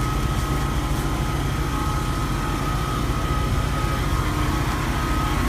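An engine idling with a steady low rumble and a thin steady whine above it.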